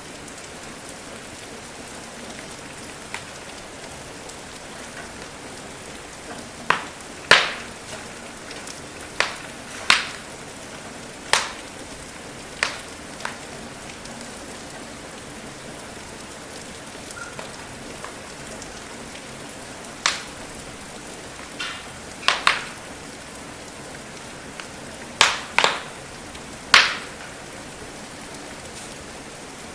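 Steady rain hiss with a wood fire crackling over it: about a dozen sharp pops at irregular intervals, some in quick pairs.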